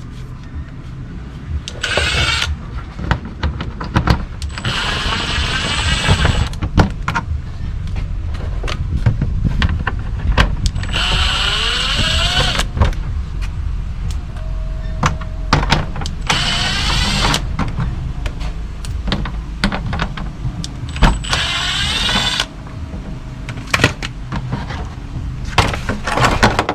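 Cordless 1/4 inch impact wrench with a 10mm socket, spinning out the bolts of a car's engine undercover in several short bursts of motor whir, one with a rising whine as it spins up. Between bursts there are clicks and knocks of the tool and fasteners.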